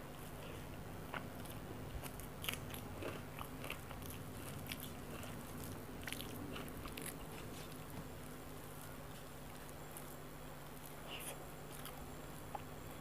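Close-miked eating sounds of a person chewing mouthfuls of rice eaten by hand, with scattered small wet clicks and smacks. A faint steady low hum sits underneath.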